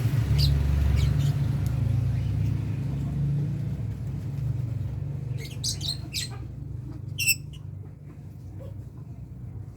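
Lovebirds chirping in short sharp calls, a cluster of them in the second half with one loud chirp near the end, over a low rumble that fades away during the first half.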